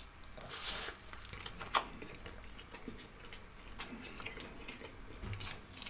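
Faint, close-up chewing of a mouthful of corned beef: scattered soft wet mouth clicks and smacks, one sharper click a little under two seconds in.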